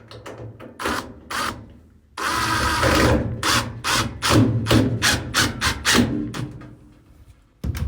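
Power drill driving a screw into a dryer's panel: a few handling clicks, then about a second of steady running, followed by a string of short trigger pulses as the screw is run home.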